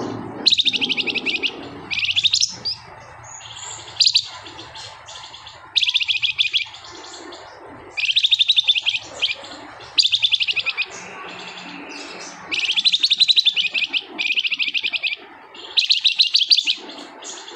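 Flamboyan (minivet) bird singing in its rattling 'ngebren' style: bursts of very rapid, tightly packed high notes about a second long, repeated every couple of seconds. This dense, fast delivery is what hobbyists call a bird in full, agitated song.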